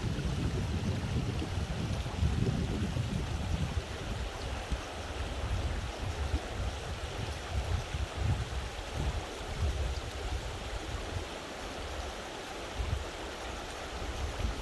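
Mountain valley stream rushing steadily over rocks. A low, uneven rumble runs underneath, heaviest in the first few seconds.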